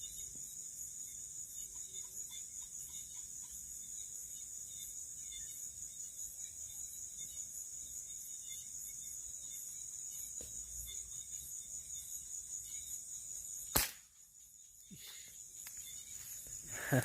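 Crickets and other night insects chirring steadily in a high, finely pulsing chorus. About fourteen seconds in, a single sharp crack cuts through, and the insects fall quiet for a moment before slowly starting up again.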